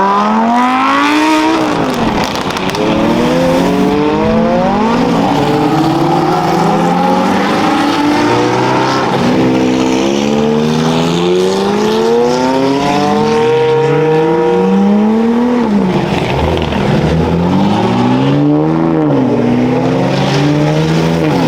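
Several race car engines at full throttle, their notes overlapping, each climbing steadily in pitch and dropping sharply at a gearshift, again and again as the cars go by.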